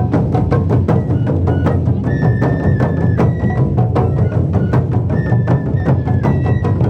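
Wadaiko ensemble of Japanese taiko drums playing a fast, dense rhythm, with a high melody line holding long notes twice over the drumming.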